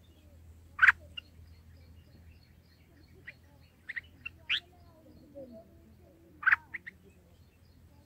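Short, sharp bird chirps, some single and some in quick clusters of two or three, the loudest about a second in, over a faint low hum.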